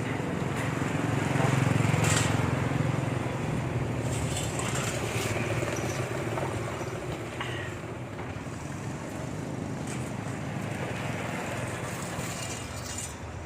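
A motor or engine running steadily with a low hum, loudest about two seconds in and then easing off.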